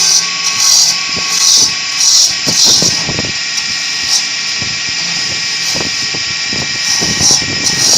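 Woodworking machine running with a steady high whine and repeated short surges of cutting noise, with scattered knocks.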